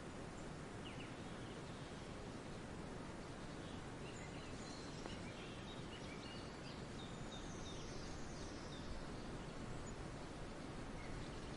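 Forest ambience: a steady background hiss with scattered, distant bird chirps and short calls, busiest in the middle.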